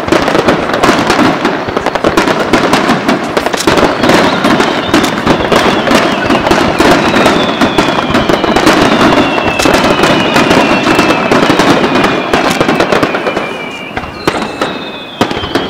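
A fireworks display firing a rapid barrage of aerial shells, heard as a dense, continuous run of bangs and crackles. High whistling tones slide slowly down in pitch over it from about four seconds in, and the barrage eases briefly near the end.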